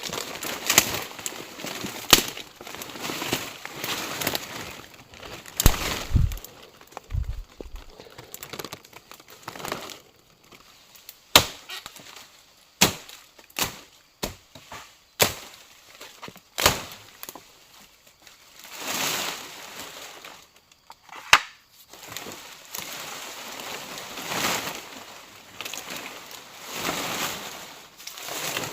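Wood being chopped and snapped by hand: irregular sharp knocks and cracks a few seconds apart, with rustling in between.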